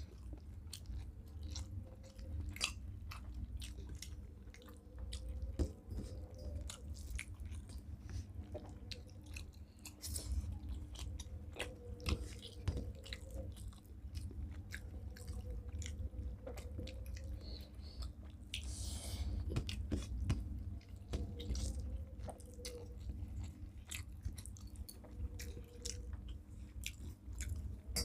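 People chewing and eating rice with curry: wet mouth sounds with many short, irregular clicks, over a steady low hum.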